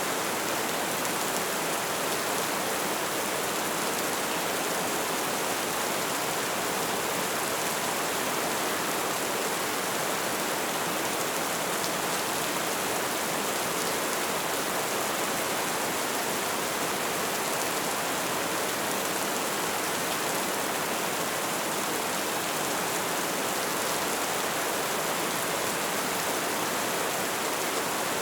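Light rain falling steadily: an even, unbroken hiss of drops.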